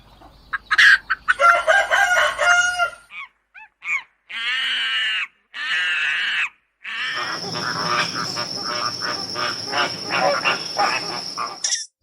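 Animal calls, most likely birds, in several short clips cut one after another. Bursts of calling and chirps come first, then two short blocks of pitched calls, then a longer stretch of rapid calls over a steady high-pitched tone.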